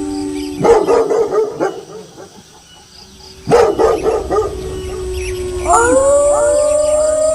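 A pack of wolves howling in long, overlapping held notes, broken twice by sudden bursts of dog barking, once about a second in and again near the middle. Near the end a fresh chorus of several rising howls begins.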